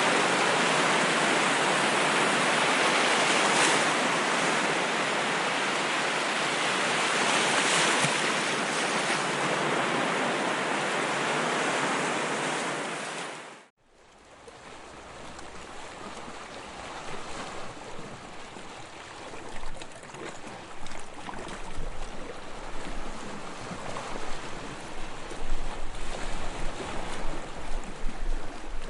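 Ocean surf washing in a steady loud hiss, swelling slightly a couple of times, then fading out abruptly about halfway through. A quieter, uneven, choppy water sound with a low rumble follows and gradually grows louder.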